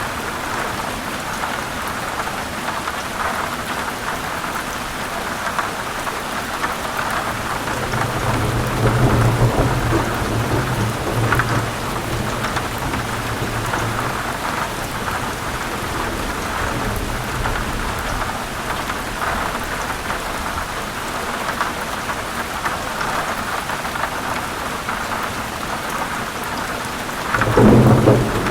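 Heavy rain falling steadily in a thunderstorm. A low roll of thunder swells about a third of the way in, and a louder, sharper clap of thunder breaks near the end.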